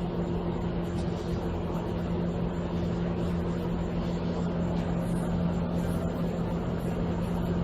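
A motor running steadily, with an unchanging low hum over a broad whirr.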